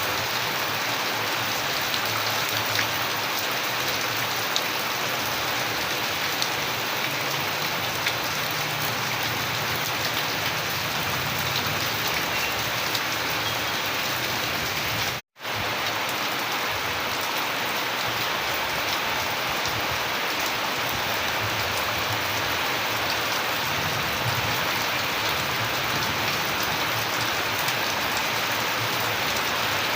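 Steady, heavy rain falling, a dense hiss dotted with many fine drop impacts. About halfway through, the sound cuts out completely for a split second, then resumes unchanged.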